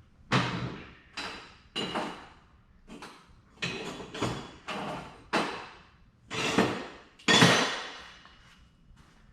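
Pieces of scrap steel knocking and clanking against each other as they are picked through and pulled out, about ten separate metallic clanks at uneven spacing, each ringing briefly.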